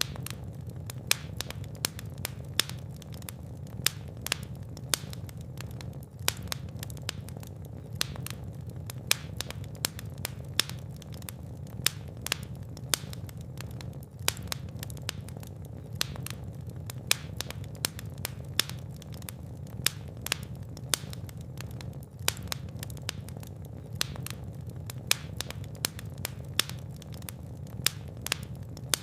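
Fire burning in a fireplace: frequent sharp crackles and pops over a steady low rumble.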